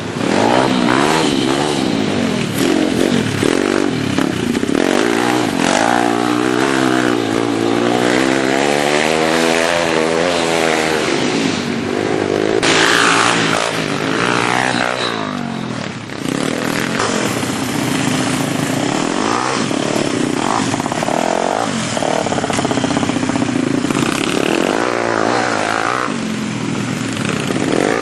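Small single-cylinder pit bike engine riding hard, its pitch climbing and dropping repeatedly as the throttle is opened and shut through gear changes.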